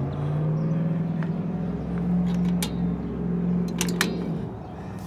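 A motor vehicle engine humming steadily, dropping away about four and a half seconds in. A few sharp metal clicks come from drum-brake spring pliers on the brake's return springs.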